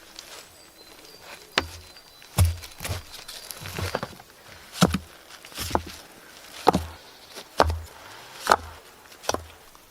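Wood being struck with a hand tool: about ten sharp blows, each a crack with a dull thud, coming steadily roughly once a second.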